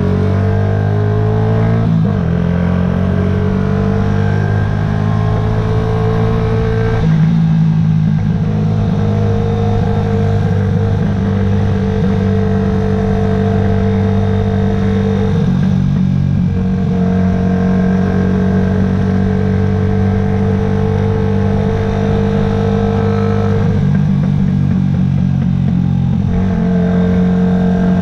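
Yamaha YZF-R125's single-cylinder four-stroke engine running under way, heard from on board. It revs up at first, then holds steady revs, with the pitch changing several times as the rider shifts gear or changes throttle.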